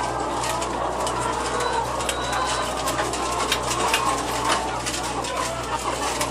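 Dense, continuous chorus of many chickens calling at once, with scattered small clicks and a steady low machine hum underneath.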